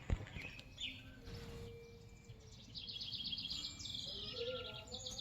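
Small bird calling: a short chirp about a second in, then a fast trill of rapidly repeated high notes from about three seconds in.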